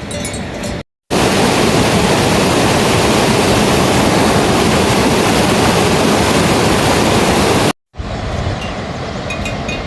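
Steady, loud rush of water, cut in abruptly about a second in and cut off abruptly near the end. On either side is a quieter outdoor background with faint high ticks.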